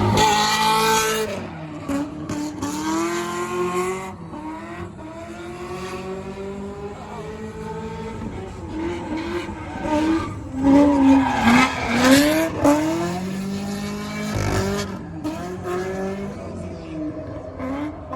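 Drift cars revving hard, the engine pitch repeatedly rising and falling, with tire squeal as the cars slide. The loudest stretches come near the start and again about two-thirds of the way through.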